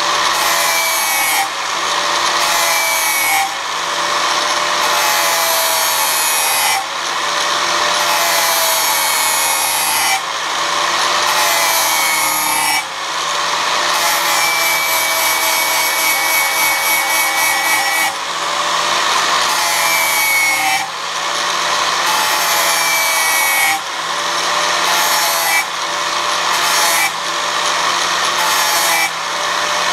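Power tool spinning a sandpaper disc against a steel mower blade, grinding a sharp edge back onto it. It runs in passes of a few seconds with short breaks between them, and its pitch wavers as the motor takes the load.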